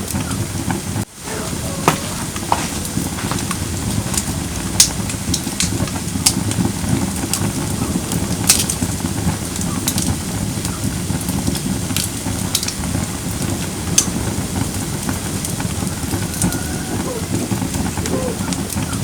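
Firewood burning in a fire pit: a steady low rush of flames with sharp crackles and pops scattered throughout. The sound briefly drops out about a second in.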